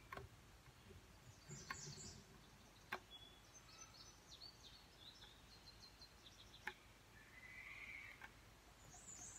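Near silence, with faint bird chirps now and then and two light clicks.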